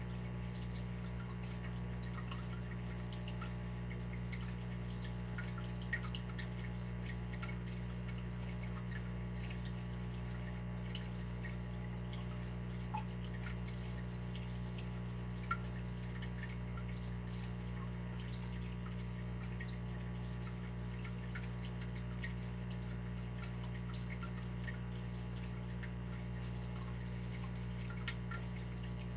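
Water dripping and trickling over a steady low rush of water, with many small scattered drips and a few louder drops, the loudest about halfway through.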